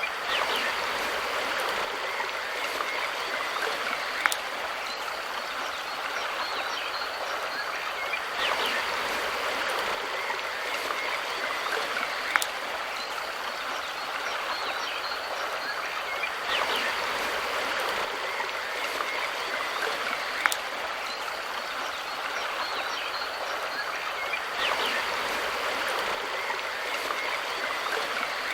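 Mountain river running steadily over rocks, a continuous rushing of water. A brief sharp click recurs about every eight seconds.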